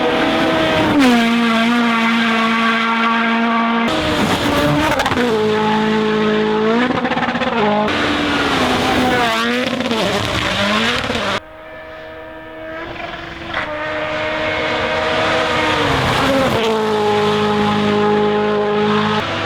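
WRC Rally1 cars' turbocharged 1.6-litre four-cylinder engines running flat out in a series of short cuts, the engine note held high, then dropping and climbing again through gear changes and lifts off the throttle. About halfway through the sound falls away suddenly, then builds as another car comes closer.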